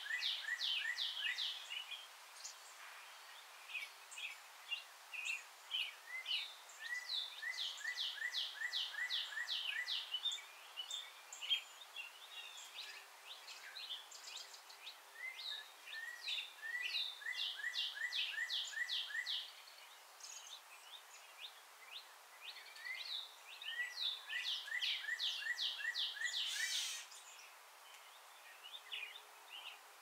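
Songbirds calling in runs of quick, high, down-sliding notes, several a second, that come and go every few seconds over a faint steady background hiss, with a brief louder noise near the end.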